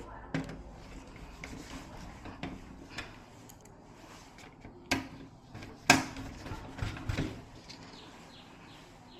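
Irregular sharp knocks and clicks of hard objects being handled and set down, about ten of them, the loudest about six seconds in.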